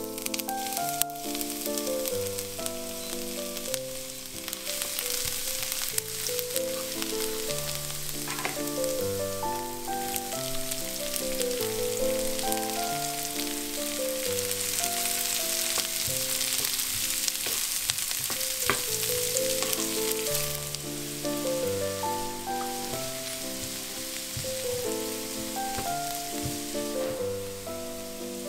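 Minced ginger and garlic, then chopped onions, sizzling as they fry in hot oil in a pan. Piano music plays underneath.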